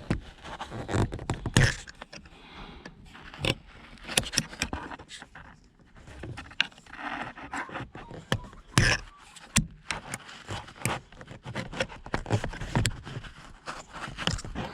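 Scattered clicks, knocks and scraping as a retaining clip is worked off a car's gear-shift cable end at the gear stick linkage.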